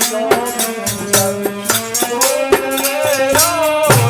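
Dehati bhajan music between sung lines: a wavering melody over a steady drone, with percussion beating an even rhythm about twice a second.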